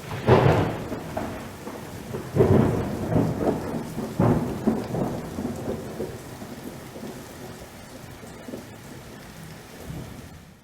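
Thunderstorm: thunder cracks and rolls loudly just after the start and again at about two and a half seconds, with a sharp clap near four seconds, then dies away to a low rumble over steady rain.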